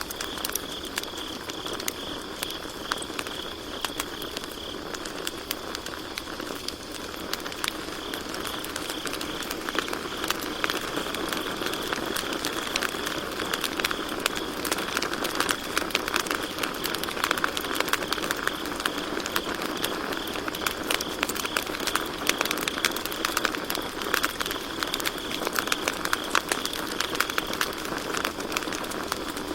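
Campfire wood crackling and popping in a rapid, irregular stream of sharp snaps over a soft hiss, with crickets chirping in a steady high trill behind it. The crackling grows busier from about a third of the way in.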